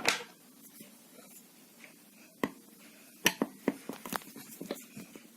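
Scattered small clicks and taps of a screwdriver and hands on a hair straightener's plastic casing as it is unscrewed and prised open, a few isolated knocks with a quicker cluster in the second half.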